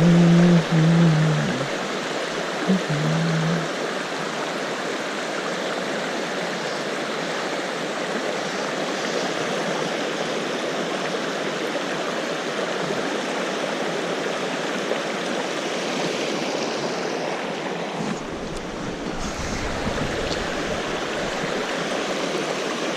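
Water from a stream rushing steadily into a natural pool, a continuous even rush. A low droning tone is heard twice: in the first second or so and again around three seconds in.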